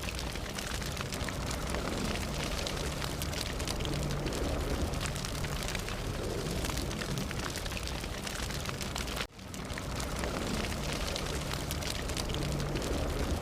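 Fire burning with dense crackling and pops over a steady low rumble. About nine seconds in the sound cuts out for an instant and fades back in.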